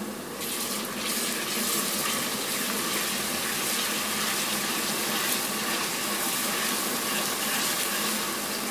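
Fried onions and ginger-garlic paste sizzling in hot oil in an aluminium pan while being stirred. The sizzle grows a little louder about half a second in, then holds steady.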